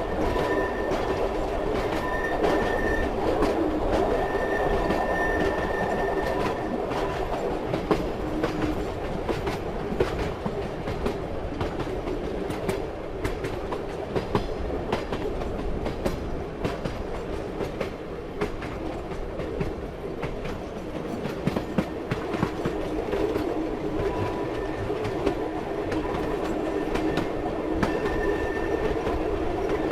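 Passenger train running on rails with a steady rumble, its wheels clicking irregularly over the track joints. A faint high whine comes and goes in the first few seconds and again near the end.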